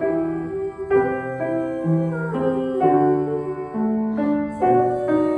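Piano intro of a slow, tender song: sustained chords changing about once a second, with no voice.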